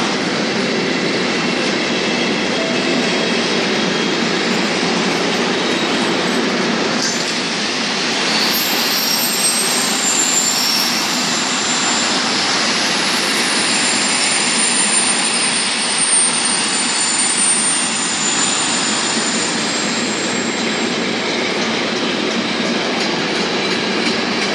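Container freight train passing: a steady rumble and clatter of wagon wheels on the rails. Thin high wheel squeals join in from about a third of the way through and fade out again near the end.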